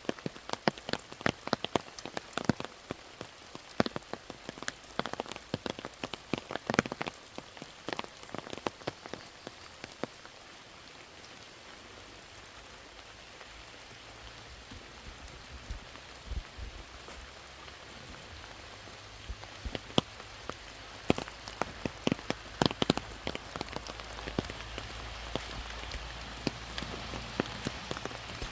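Steady rain with many individual drops striking loudly close by, the strikes thinning out for a while in the middle and growing dense again towards the end.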